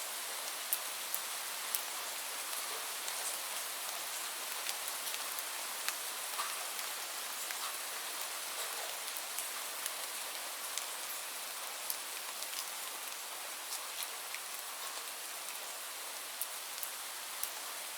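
Steady rain: an even hiss with scattered sharper drop ticks.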